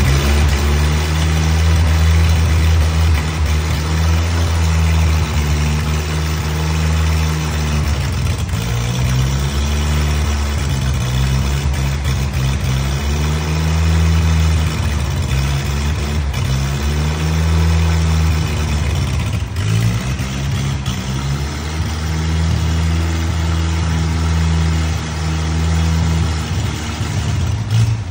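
1938 American Bantam's freshly rebuilt four-cylinder flathead engine running unevenly, its speed sagging and picking back up several times, while being fed from an aerosol can at the carburettor and worked by hand at the throttle to keep it going.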